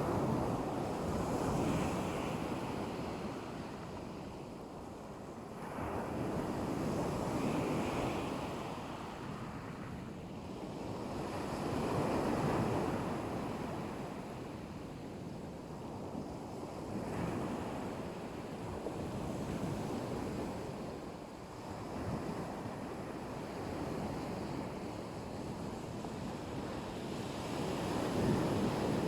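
Black Sea waves breaking on the shore, swelling and falling away every five or six seconds.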